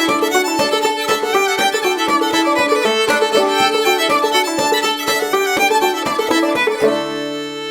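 Clawhammer banjo in D tuning and fiddle playing an old-time tune together, the banjo's quick plucked rhythm under the fiddle's bowed melody. About seven seconds in the picking stops and the two settle onto a long held closing chord as the tune ends.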